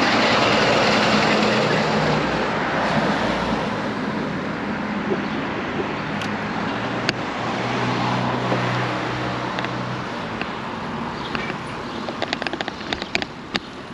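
Road vehicle noise: a steady rush of wind and tyre noise with a low engine hum, slowly fading, then a quick run of sharp ticks near the end.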